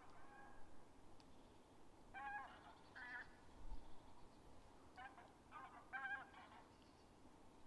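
Faint calls of distant large birds: short pitched calls in small groups, one at the start, two around two to three seconds in, and three more in quick succession around five to six seconds in.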